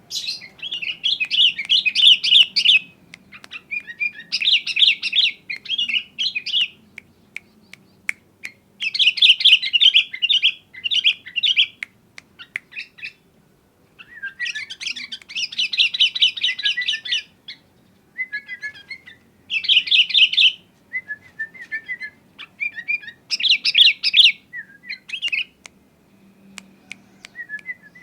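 Sooty-headed bulbul singing: repeated bursts of quick chattering, warbling phrases, each a second or two long, with short pauses between them.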